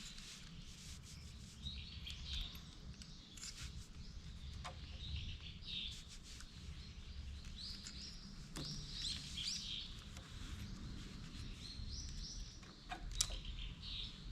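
Small birds chirping over and over, with a few sharp clicks or knocks, the loudest near the end, over a low steady hum.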